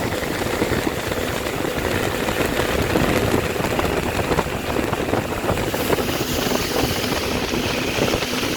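Jet ski engine running steadily, a continuous hum under a constant rushing noise.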